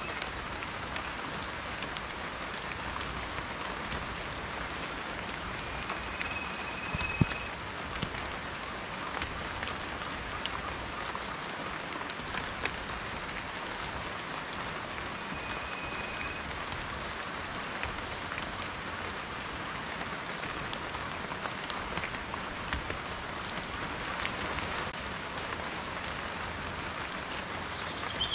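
Steady rain falling, with individual raindrops ticking sharply through the hiss and one louder drop hit about seven seconds in. A short, high, steady whistle sounds twice, a few seconds in and near the middle.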